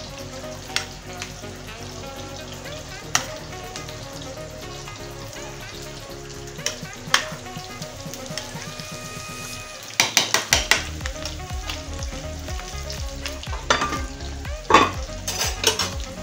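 Potatoes frying in oil in a skillet, a steady sizzle. Scattered sharp clinks and knocks of a metal spoon against the pots come on top, thickest from about ten seconds in.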